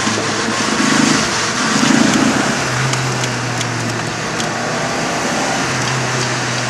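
Car engine running under load with road and wind noise heard inside the cabin, swelling louder twice about one and two seconds in.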